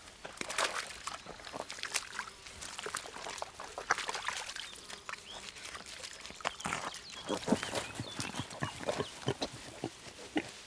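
Wild boars grunting, in short, irregular grunts.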